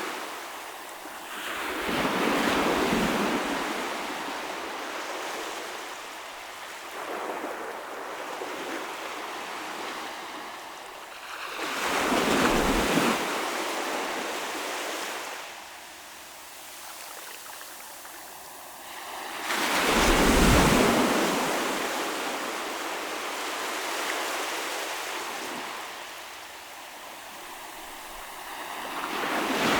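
Ocean waves breaking on the shore, each surge swelling and fading in turn, about four times with the largest about two-thirds through, over a steady wash of surf.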